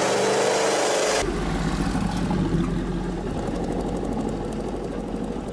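Aston Martin Vantage GT8's V8 engine running. A loud, harsh engine sound cuts off abruptly about a second in and gives way to a low, deep rumble of the engine at low revs, which slowly fades as the car moves away.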